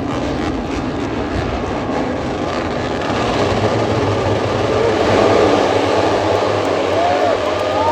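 A pack of Moto3 racing motorcycles with 250 cc single-cylinder four-stroke engines running at high revs past the trackside. The combined engine noise swells to its loudest about five seconds in, and near the end individual bikes can be heard rising and falling in pitch as they change gear and pass.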